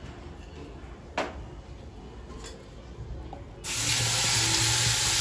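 Onion-tomato gravy poured from a mixer jar into a hot pan of butter and milk, starting a sudden loud, steady sizzle about three and a half seconds in. Before that there are only a couple of light clicks over quiet room sound.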